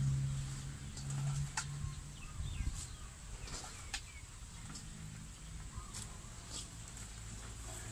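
Birds chirping and calling, with scattered sharp clicks and a low steady hum that drops away after about a second and a half.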